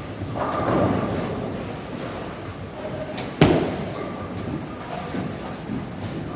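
Bowling ball rolling down a lane with a rumble, then hitting the pins with one sharp crash about three and a half seconds in, followed by lighter clatter.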